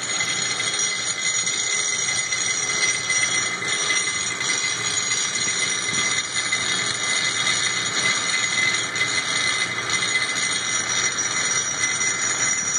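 Mini rock crusher running steadily as it crushes charcoal: a continuous grinding rattle with a high-pitched metallic ringing on top.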